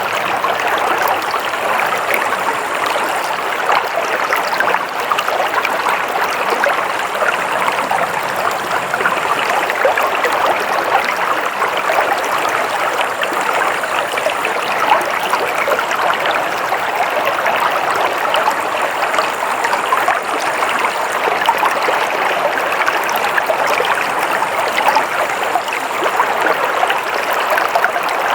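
Flowing water of a stream, a steady continuous rushing and babbling.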